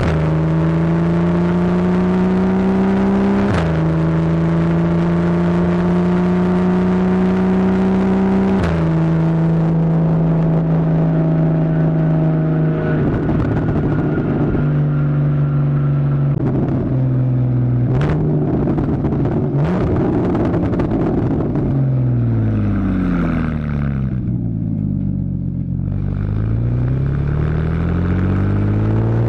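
2015 Porsche Boxster's 2.7 L flat-six through a Fabspeed Maxflo exhaust, accelerating hard with its PDK gearbox snapping through upshifts twice, the pitch dropping sharply at each shift. It then runs rough and crackly for a stretch, the revs fall away as it slows, and they climb again near the end.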